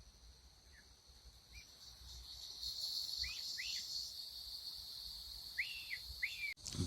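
Insects chirring outdoors in a steady high-pitched drone that swells for a couple of seconds, with a bird giving short chirps, several of them in pairs.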